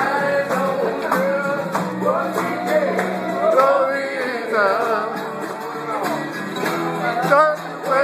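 A string band playing live with singing and guitar; the melody bends and slides continuously.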